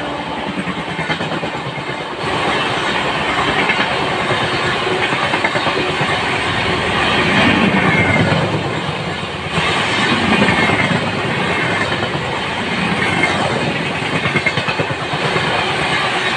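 Indian Railways train running on the track: a steady rumble with wheels clattering over the rail joints. The sound changes abruptly about two seconds in and again about halfway through.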